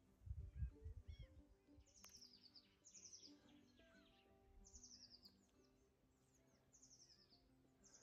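Faint songbird song: a short, high, falling trill repeated every second or so. A few soft low thumps come near the start.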